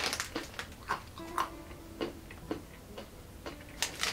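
A person chewing a mouthful of peanuts: crisp, irregular crunches, two to four a second.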